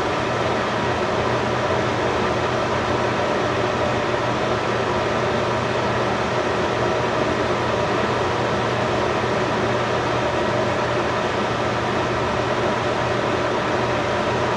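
Steady whirring hum with an even hiss, like a fan or blower running, unchanging throughout.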